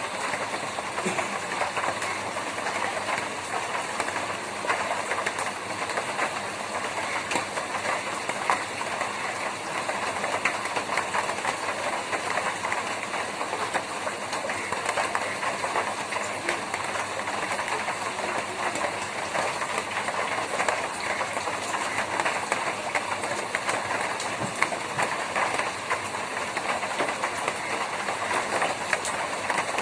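Steady rain drumming on a tin roof: a dense, unbroken clatter of countless drops striking the metal sheets.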